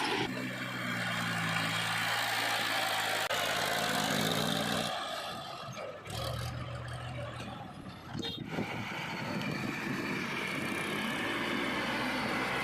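Diesel engines of a backhoe loader and tractor running at work. The engine note changes abruptly about 3, 6 and 8.5 seconds in.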